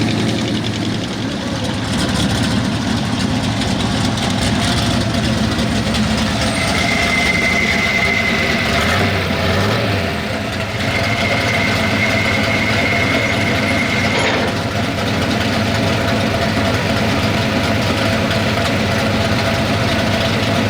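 Gas-engined street stock pulling truck running steadily at a low, even speed. A thin, steady high tone sounds twice around the middle.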